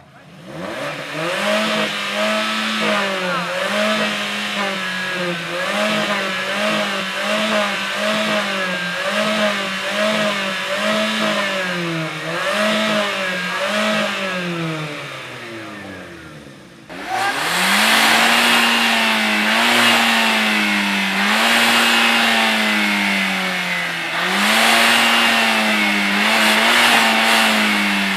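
A car engine revved again and again through its exhaust, in quick blips about once a second that each fall back, then dropping toward idle. After a sudden cut comes a second run of longer, slower revs.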